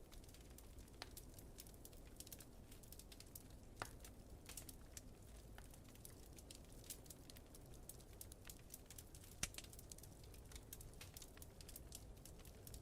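Faint wood fire crackling, with irregular sharp pops and snaps over a steady low rumble. The two loudest pops come about four seconds in and a little past nine seconds.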